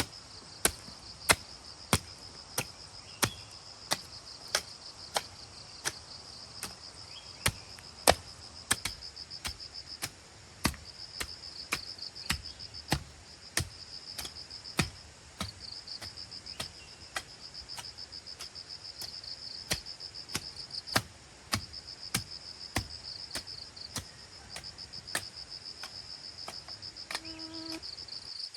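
Sharp strikes at an even beat, about three every two seconds, like a tool chopping or hammering over and over. Insects keep up a steady high-pitched chirring behind them.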